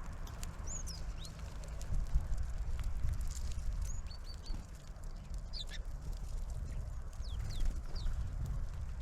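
Small birds at a feeder giving short, high call notes, some sliding downward, with a quick run of three notes about four seconds in, over a steady low rumble.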